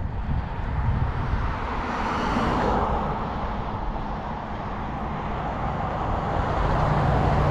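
A car driving past on the road beside the bike path, its tyre and engine noise swelling to a peak about two and a half seconds in and fading away, with another vehicle building up near the end.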